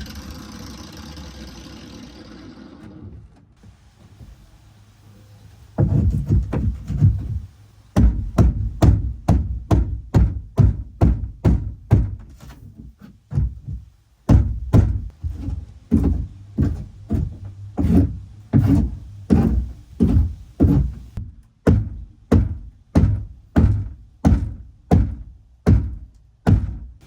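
An angle grinder runs for the first few seconds and stops; after a short pause comes a long series of heavy thunks, about one or two a second with a couple of brief breaks: the boat's rotten fiberglass floor section being pounded loose.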